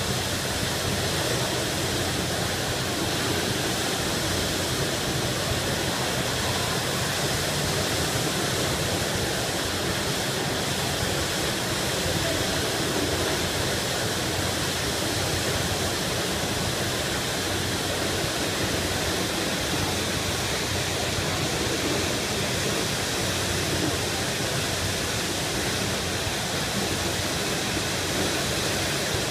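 Water gushing from a fire hydrant sheared off by a truck, a steady, unbroken rushing spray.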